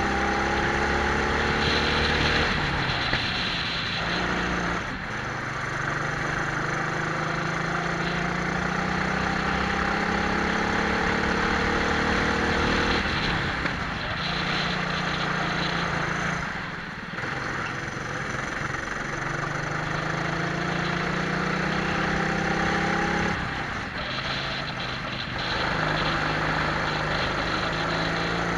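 Twin-engine racing kart's engines heard onboard, pitch climbing steadily as the kart accelerates along each straight, then dropping sharply when the throttle is lifted for a corner, three times. A steady rushing noise runs underneath.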